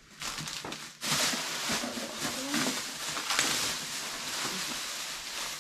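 Plastic bags and packaging crinkling and rustling as items are handled, with irregular crackles that start abruptly about a second in.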